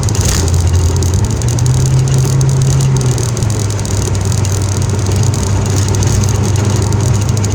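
Car engine and road noise from inside the cabin while driving. The engine's pitch rises about a second in, falls back around three seconds in, then holds steady, over a constant hiss.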